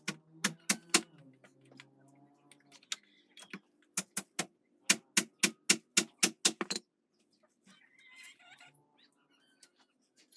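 Hammer strikes in short quick runs, the longest about four blows a second, over a low steady hum.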